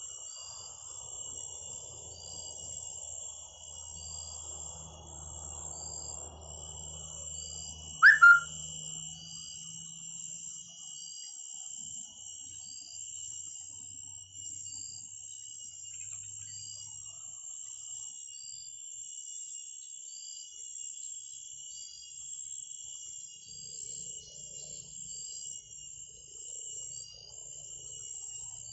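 A small bird's short high chirp repeating evenly, about once every second and a bit, over a steady high trilling of insects, with one loud, sharp, brief call about eight seconds in.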